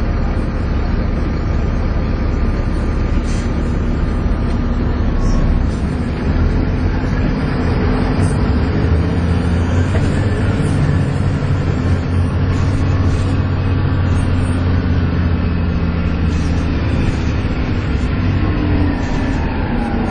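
Volvo B7TL double-decker bus's six-cylinder diesel engine heard from inside the bus, working hard under acceleration with a hoover-like whine over the engine note. The engine note changes about six seconds in.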